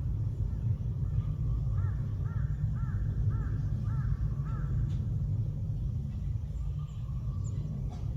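A bird calling a quick series of about six short, arched notes, roughly two a second, over a steady low rumble.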